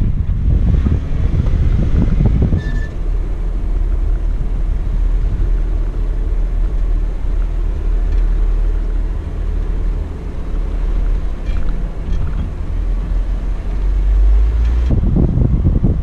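Off-road Jeep's engine running as it is driven, a steady low rumble.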